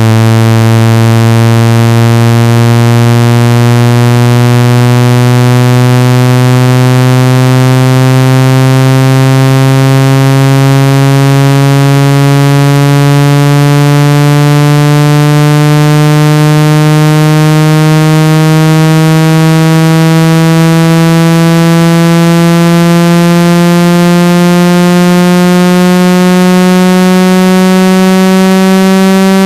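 A synthesized phone water-ejection tone: a loud, low buzzing tone that slowly rises in pitch. It is played at high volume so the speaker's vibration shakes trapped water out of a phone or earphone speaker.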